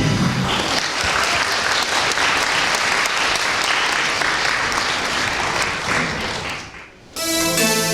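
Audience applauding after a dance number, the clapping dying away about six and a half seconds in. Music starts up just before the end.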